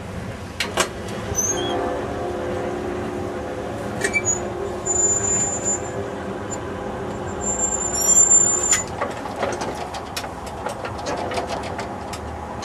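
A train rolling past on the rails: steady running noise with scattered clicks from the wheels, and two brief high-pitched squeals, one near the middle and one about two-thirds of the way through.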